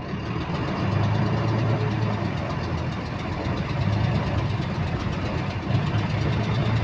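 Volvo B9TL double-decker bus engine running, its drone swelling and easing as the engine speed changes. A repetitive clicking keeps time with the engine speed.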